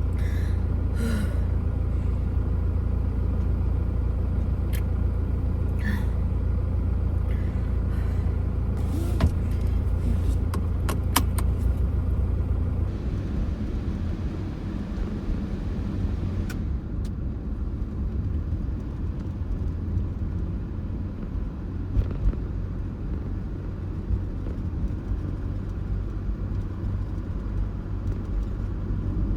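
Steady low rumble in a Toyota HiAce van, with a few light clicks and short chirps in the first half; about thirteen seconds in the rumble eases and turns more uneven.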